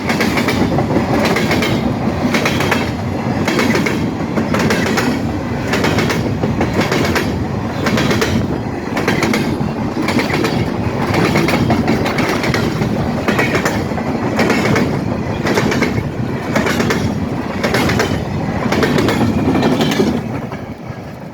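Freight train cars rolling past, their wheels clacking over rail joints in a steady repeating rhythm over a continuous rumble; the noise starts to fall away near the end.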